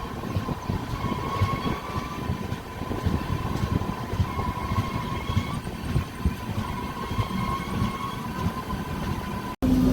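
Passenger train running along the track, heard from aboard: a steady rumble with a high squeal that comes and goes every second or two. It cuts off suddenly near the end.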